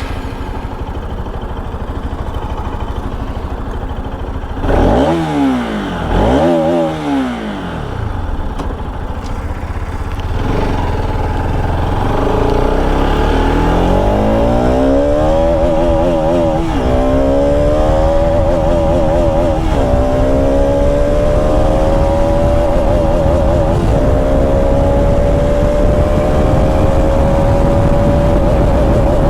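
Bajaj Pulsar RS200's single-cylinder engine idling, then blipped twice, about five and six and a half seconds in. From about ten seconds in the bike pulls away and accelerates up through the gears: the pitch climbs and drops at each of five upshifts, then settles into a slowly rising cruise.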